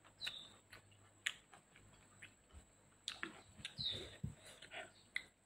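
Faint close-up eating sounds: wet chewing clicks and smacks, then soft knocks and rustling as grilled chicken is pulled apart by hand in a stone mortar bowl. A bird chirps twice in the background, a short falling chirp each time.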